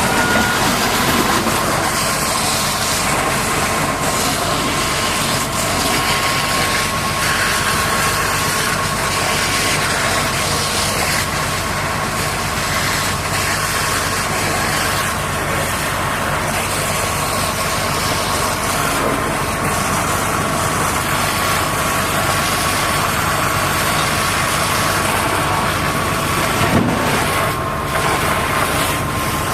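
Heavy diesel engine of earth-moving equipment running steadily, with a steady high whine over an even hiss.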